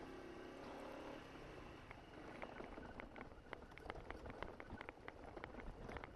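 Honda SH150i scooter riding a rough, rocky track: the engine hums steadily for about the first second, then quietens, and from about two seconds in irregular clicks and crunches come from the tyres rolling over gravel and loose stones.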